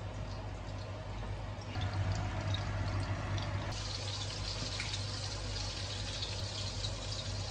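Water running steadily from a tap. The flow gets stronger about two seconds in and brighter again near four seconds.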